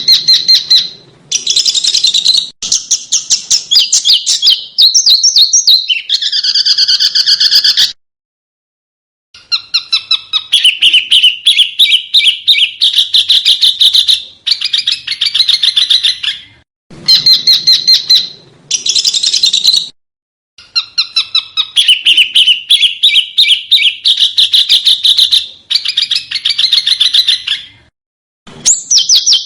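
Small songbird singing in fast, sharp trilled phrases, each a rapid run of repeated high notes, several phrases in a row with short pauses between them.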